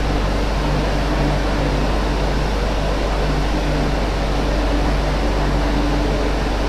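Interior running noise of an MTR Q-train electric multiple unit travelling at speed between stations: a steady, even rush with a constant low hum and a deeper tone that pulses on and off.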